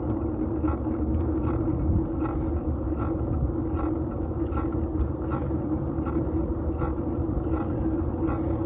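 Riding noise of a fixed-gear bicycle picked up by a phone in a metal handlebar mount: a steady rumble of tyres on the road, with a regular ticking about twice a second.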